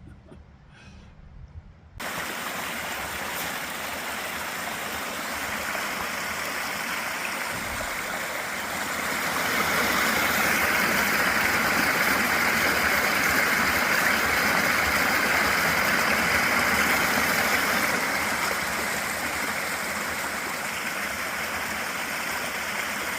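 Steady rush of running water from a stream, starting suddenly about two seconds in. It swells louder for several seconds in the middle, then eases a little.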